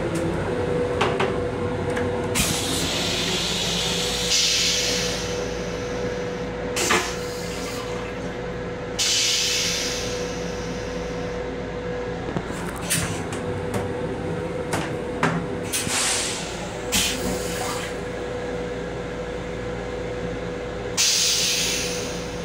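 Restroom of an LIRR M7 electric railcar while the train runs: a steady low rumble and a constant hum-like tone, with several hissing rushes of a second or two and scattered sharp clicks and knocks.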